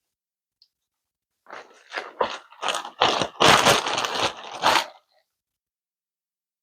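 Crab shells being cracked and broken apart by hand: an irregular run of crunches and snaps lasting a few seconds, starting about a second and a half in.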